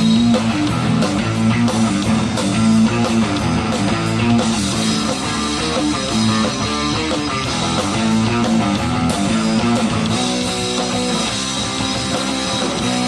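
Live punk rock band playing an instrumental passage: loud distorted electric guitar over bass and drum kit, with no singing.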